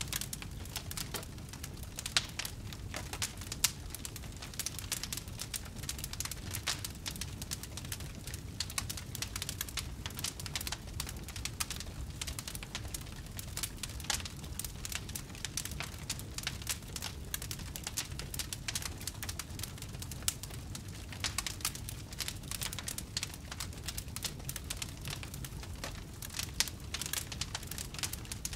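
Wood fire in a fireplace crackling: a dense stream of small crackles with a few louder pops, over a low steady rumble.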